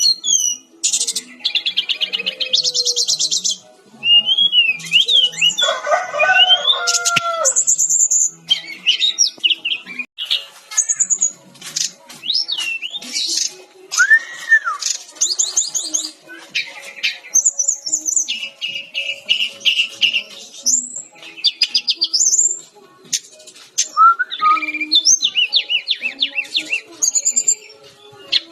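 Sikatan-rimba dada-coklat (a Cyornis jungle flycatcher) singing almost without pause. The song is a varied string of rapid high trills, rattles and whistled slurs, with a lower, fuller call about six seconds in.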